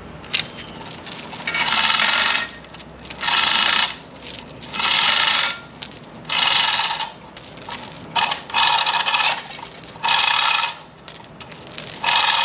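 Rhythmic metallic squeaking and scraping, one stroke about every second and a half, eight or so strokes in all, as metal parts work against each other under repeated load.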